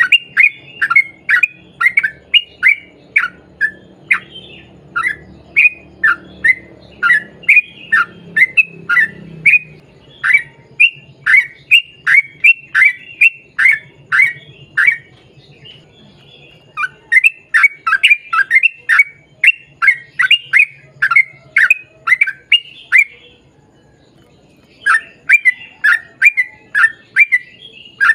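Yellow-vented bulbul (trucukan) singing a long, fast run of repeated short notes, each dropping in pitch, about two to three a second. The run breaks off twice for a second or two.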